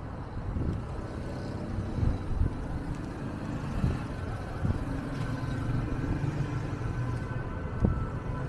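Street ambience dominated by a motor vehicle's engine running steadily at low revs, with a few brief knocks about two seconds in and near the end.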